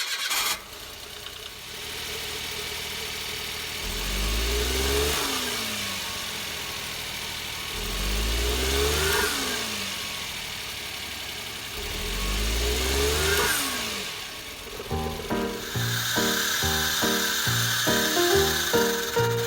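Suzuki Jimny JB23's three-cylinder engine revved up and let back down three times, about four seconds apart. This engine runs rough, from a misfire that the owner puts down to either an ignition coil or a spark plug. Music with a steady beat comes in about fifteen seconds in.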